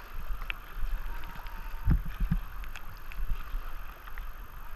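Kayak on fast-moving river water: a steady rush of current with paddle splashes and a few dull low thuds, several close together about two seconds in.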